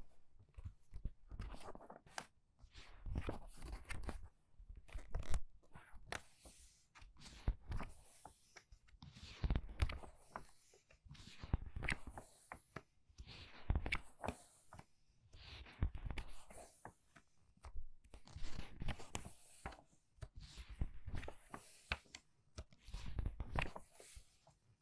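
Book pages turned quickly one after another, each turn a crisp papery swish and rustle, about one every two seconds.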